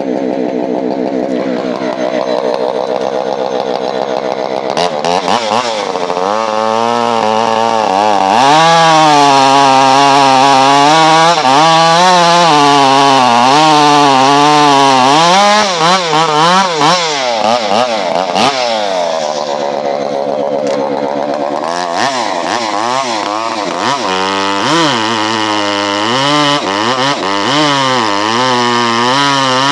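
Husqvarna 390XP two-stroke chainsaw running loud through a modified muffler: it idles for a few seconds, then is revved up and held at high revs for several seconds, followed by repeated blips of the throttle rising and falling in pitch.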